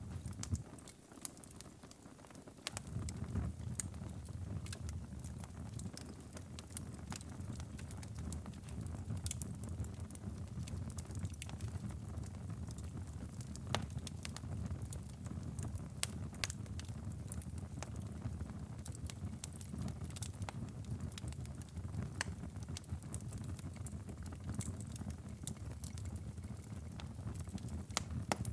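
Wood fire crackling and popping in a fireplace, irregular sharp snaps over a steady low rumble. The rumble drops away for about two seconds near the start, then returns.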